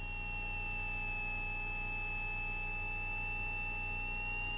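A steady high-pitched electrical whine, sliding slightly lower near the start and then holding, in the Cessna 172S's headset intercom audio, over the low hum of its engine idling after the run-up.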